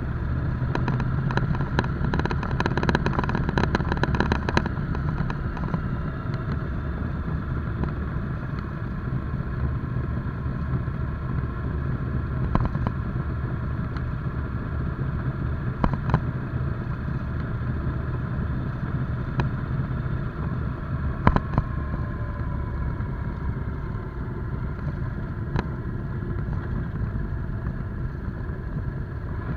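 Motorcycle engine running at a steady pace while riding, with a stretch of rapid rattling in the first few seconds and a few sharp clicks later on.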